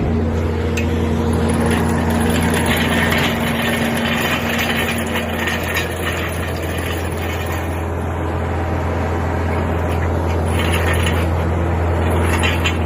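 An engine idling steadily with a constant low hum, with some light rattling now and then.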